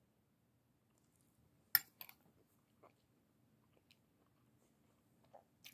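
Quiet chewing of a mouthful of asparagus, with one sharp click a little under two seconds in and a couple of faint ticks after it.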